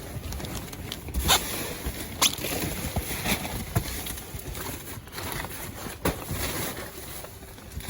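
Rummaging through trash in a dumpster: bags, paper and objects rustling and shifting, with a few sharp knocks and clunks, the loudest a little over a second in, just after two seconds, and about six seconds in.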